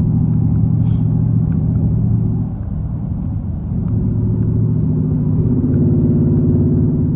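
Straight-piped 5.7-litre Hemi V8 of a Jeep Grand Cherokee, with no mufflers, rumbling at low revs. It eases off about two and a half seconds in, then rises in pitch as the engine is revved up a little near the end.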